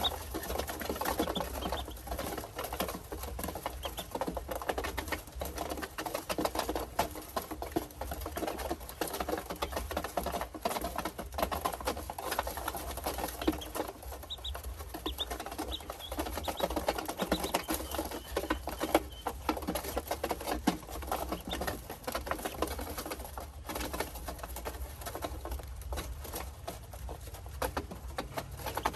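Ducklings: a dense, irregular pattering of small taps and scratches with a few faint high peeps in the middle, over a low steady hum.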